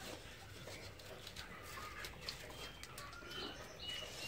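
Faint, short, high-pitched bird chirps, a few of them in the second half, over light scattered clicks and rustling.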